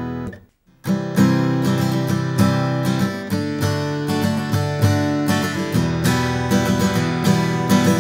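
Acoustic guitar strummed in a steady rhythm of chords. A brief cut to silence comes about half a second in, before the strumming starts again.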